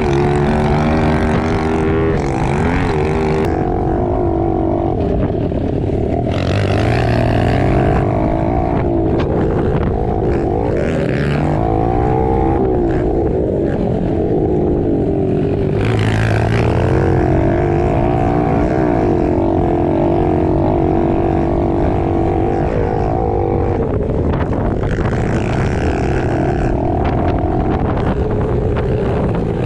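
110cc pit bike engine running hard, its pitch rising and falling over and over as the throttle opens and closes, with a hiss of wind coming and going.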